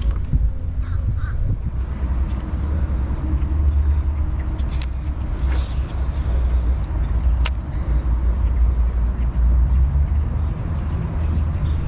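Steady low rumble of wind buffeting the microphone, with a couple of short sharp clicks a few seconds apart near the middle.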